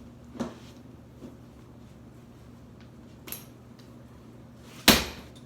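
Ceiling fan parts being handled: a few light metallic knocks, then one loud sharp clank near the end, over a steady low hum.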